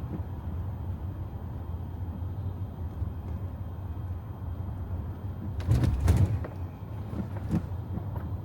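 Steady low road and tyre rumble inside the cabin of a Tesla electric car driving on wet roads, with a short cluster of knocks and clicks about six seconds in and two more a little later.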